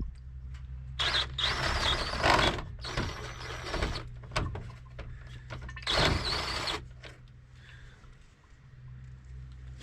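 Pneumatic air ratchet running in three bursts, two of about a second and a half and one shorter, with a whine, backing out the bolts that hold a fan shroud.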